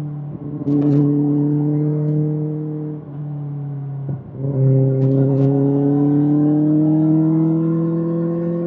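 Kawasaki ZX-6R inline-four engine running through an SC-Project SC-1R exhaust. Its note sags and breaks briefly twice, about half a second in and again about four seconds in. It then climbs slowly and steadily through the second half, with a few short crackles.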